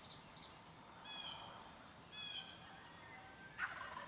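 Distant wild turkeys gobbling from the roost: two faint calls about a second apart, then a louder gobble from a second bird near the end.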